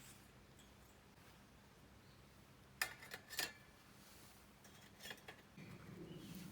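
Quiet, with a few sharp clicks and knocks about halfway through, then a low rustling noise starting near the end.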